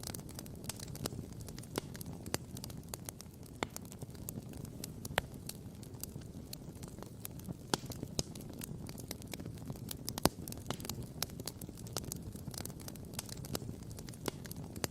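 Wood campfire crackling and popping: irregular sharp snaps over a steady low rumble, with one louder pop about ten seconds in.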